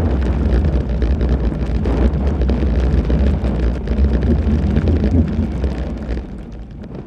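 Wind buffeting the microphone: a steady low rumble with rustling over it, fading out near the end.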